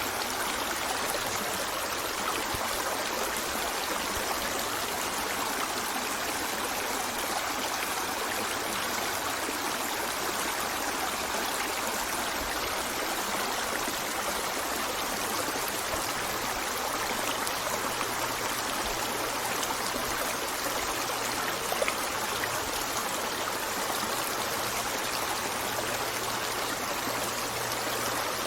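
River water flowing over stones: a steady rushing and babbling with no let-up. One brief louder splash about 22 seconds in.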